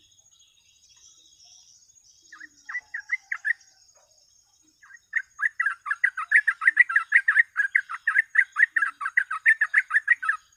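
Yellow-vented bulbul (cucak trucuk) singing: a short burst of bubbly notes about two seconds in, then from about five seconds a long rapid run of repeated notes, about five a second.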